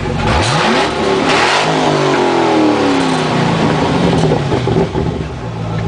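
American car engine revved once: the pitch climbs quickly about half a second in, falls back over the next two seconds, and settles into a steady idle.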